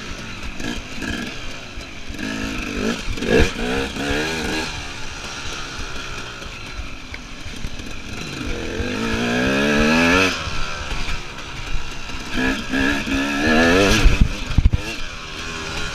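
KTM EXC enduro motorcycle engine revving up and down on a rough course. There is a long climb in revs about two-thirds of the way through that then drops off, and short blips of throttle. A few sharp knocks and clatter come near the end.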